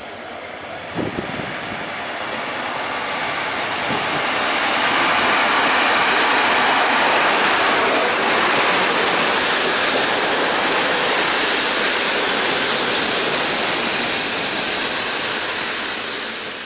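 EP07P electric locomotive and its passenger coaches rolling past close by: a steady rush of wheels on rail that builds over the first few seconds and then holds.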